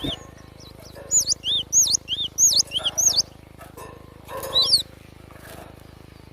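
Cinereous tit (glatik batu) calling: a quick run of arching, whistled notes repeated for about two seconds, then another short burst a little after four seconds in.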